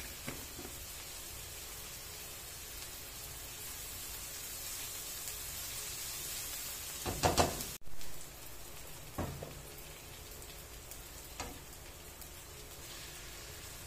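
Chopped onion sizzling steadily in hot oil in an aluminium wok, with a spatula scraping and knocking against the pan about seven seconds in and twice more, more lightly, afterwards.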